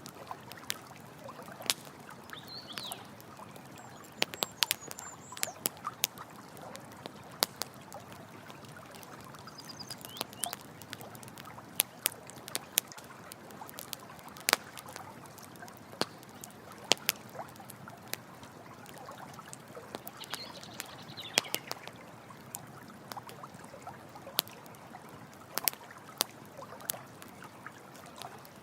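Campfire crackling, with irregular sharp pops, over the steady rush of running water; a few brief high chirps from a small animal come through now and then.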